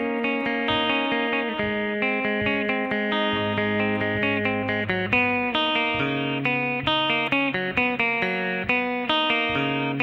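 Electric guitar picking a single-note line across the strings, each note ringing into the next, with the lowest note changing twice.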